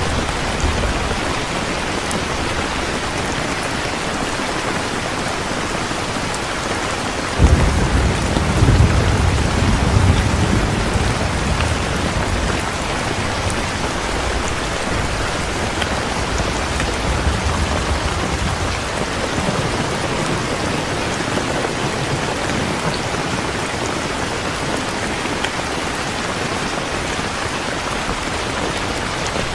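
Heavy rain falling steadily, with a roll of thunder that breaks in suddenly about a quarter of the way through and rumbles for several seconds before fading back under the rain.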